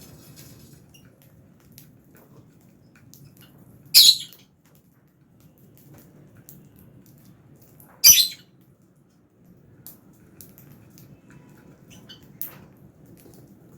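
Lovebirds in an aviary: two loud, shrill squawks about four seconds apart, with faint chirps and small clicks in between.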